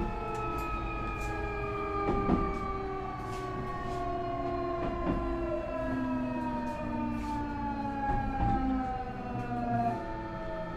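Nankai 8300 series IGBT VVVF inverter and totally enclosed induction traction motors whining, several tones falling slowly together in pitch as the train slows, with a small jump in the tones near the end. A few knocks from the wheels over the track come through underneath.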